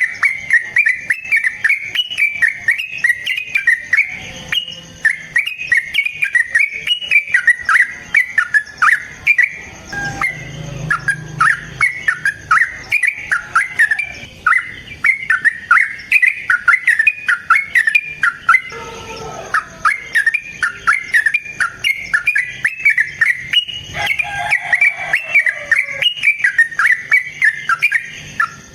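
Yellow-vented bulbul (trucukan) singing in a long, unbroken run of quick chattering notes. A short lower phrase of descending notes comes in twice, near the middle and again about four-fifths of the way through.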